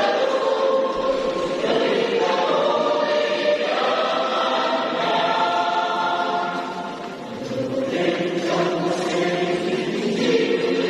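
Church choir singing a hymn, many voices holding long notes together, with a short softening in the middle of the phrase.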